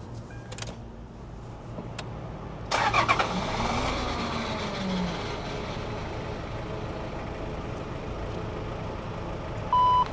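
A vehicle engine is started about three seconds in and keeps running steadily. Two short, even beeps sound near the end.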